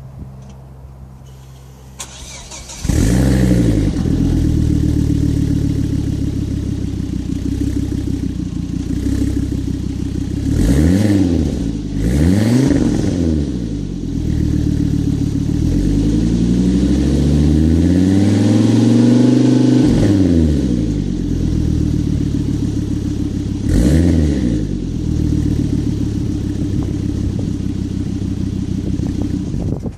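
Volvo S60 exhaust as the engine starts about three seconds in. It settles to a steady idle, then is revved in a few short blips and one longer rev held for a few seconds before dropping back to idle.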